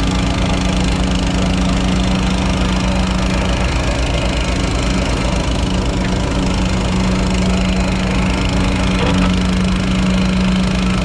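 A small gasoline engine running steadily under work, its pitch wavering briefly partway through.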